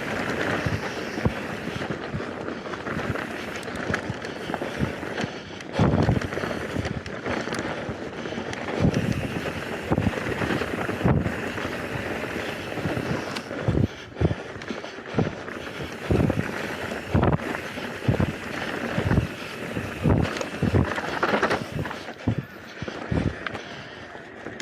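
Mountain bike descending a dirt forest singletrack: steady tyre and wind noise on the microphone, broken by frequent irregular knocks and thuds as the bike goes over bumps.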